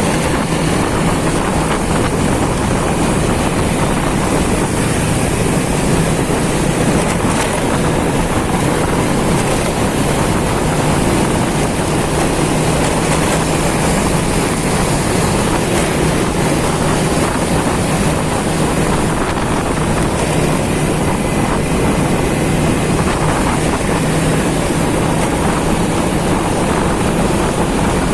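Steady rush of wind on the microphone over a motorcycle engine running at an even pace while riding.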